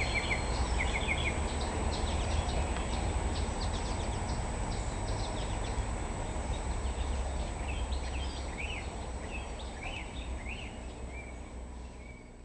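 Outdoor ambience: birds chirping in short calls over a steady low rumble, the whole fading out near the end.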